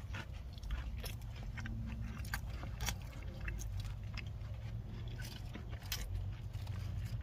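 A person chewing bites of a chocolate chunk cookie, crisp outside and soft in the middle: scattered small crunches and clicks over a low steady rumble.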